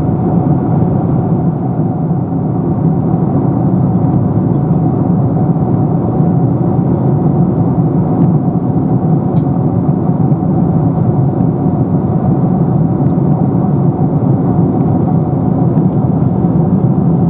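Steady cabin noise of a Boeing 747-400 airliner in cruise: an even rumble of engines and airflow heard from inside the passenger cabin.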